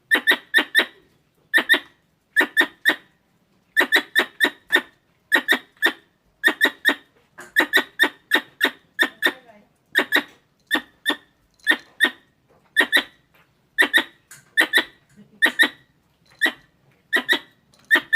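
Squirrel's sharp chirping calls, in quick bursts of two to four chirps repeated about once a second.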